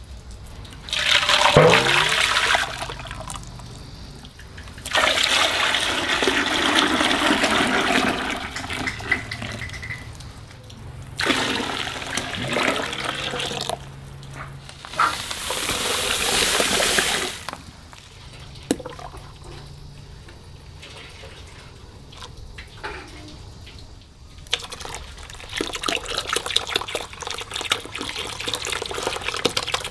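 Water being poured and splashed in several separate bursts of a few seconds each, with quieter pauses between them. Near the end it turns into a steadier run of water with small splashes.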